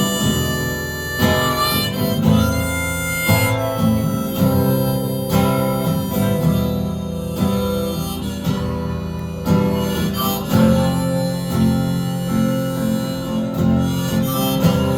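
Harmonica playing a melody over strummed acoustic guitar: an instrumental break in a folk song.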